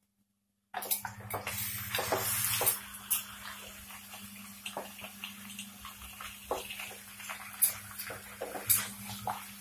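Raw desi chicken pieces hitting hot mustard oil in a pan, starting about a second in with a loud sizzle that eases after a couple of seconds. The sizzle keeps on under the scrapes and knocks of a wooden spatula against the pan.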